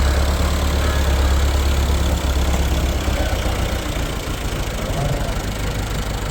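An engine running steadily with a low hum, which eases a little about three seconds in.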